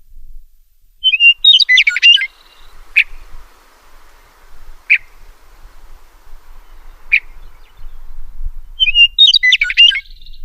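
Songbird singing: a rapid, jumbled high phrase about a second in and again near the end, with single sharp chip notes about every two seconds in between.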